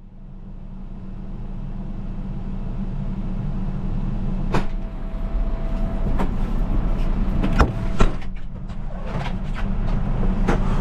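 A vehicle engine running steadily, fading in over the first couple of seconds, with a handful of sharp clicks and knocks over the second half, the loudest about eight seconds in.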